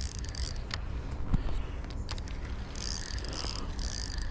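Spinning fishing reel being wound in with a hooked fish on, a light mechanical ratcheting with scattered clicks over a steady low rumble.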